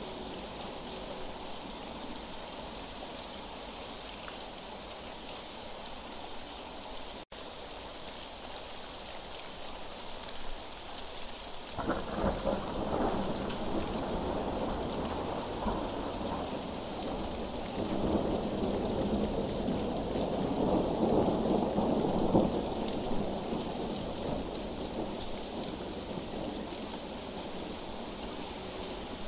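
Steady rain falling, with a roll of thunder breaking in about twelve seconds in, swelling again a few seconds later and then dying away.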